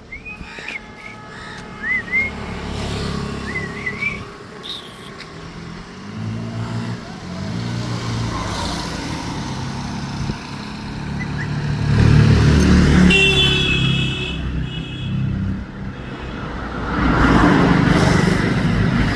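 Motor vehicle engine running, growing louder about twelve seconds in and again near the end, with a few short bird chirps in the first seconds.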